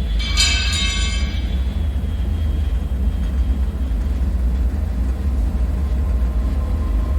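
Dark bunker ambience: a deep, steady low rumble drone. A fraction of a second in, a metallic ringing screech sets in sharply and fades away within about a second.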